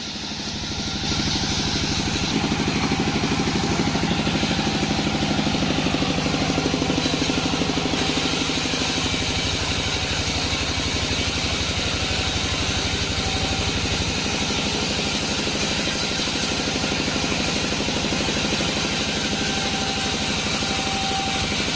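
Engine-driven sawmill machinery running steadily with a fast, even pulse, growing louder about a second in.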